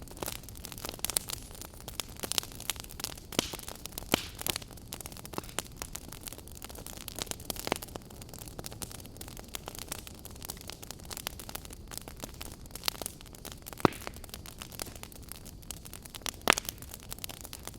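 Wood log fire crackling: irregular sharp pops and snaps over a steady low hiss, with two louder pops in the second half.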